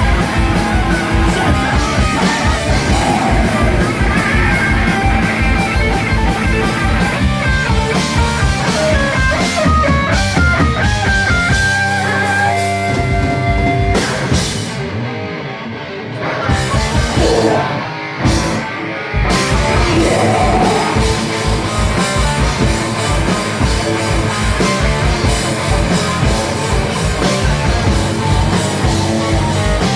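Live rock band playing loud distorted electric guitar over a driving drum kit. About halfway through the drums drop out for a few seconds under a run of guitar notes, then the full band comes back in.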